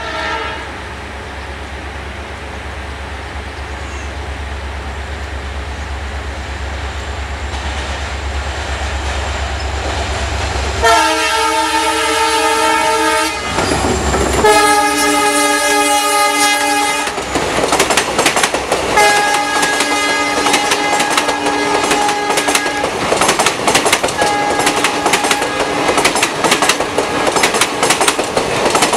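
An approaching WDP-4 diesel locomotive hauling an express: a low rumble grows steadily louder, then its horn sounds in two long blasts about eleven and fourteen seconds in as it passes. The coaches then run by at speed with a rapid clickety-clack of wheels over rail joints, while the horn sounds twice more, fainter.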